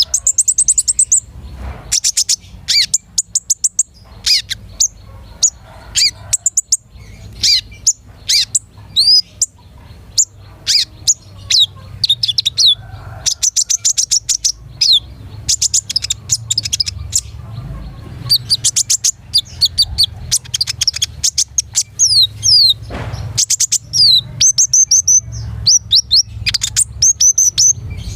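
Kolibri ninja sunbird singing vigorously: rapid strings of high, thin chirps and fast trills in repeated bursts, with short pauses between phrases.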